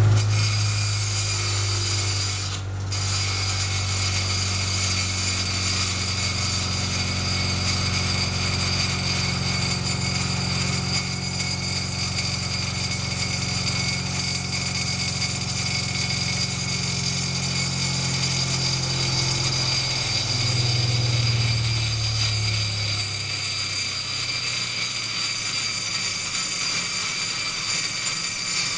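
Bench grinder's grinding wheel grinding rust off a steel round bar, with a steady motor hum under a continuous high grinding sound. About twenty seconds in, the motor hum drops and fades as the wheel bogs down under the pressure.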